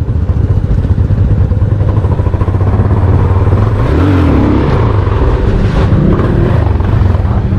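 Motorcycle engine running steadily with a fast, even pulsing rumble.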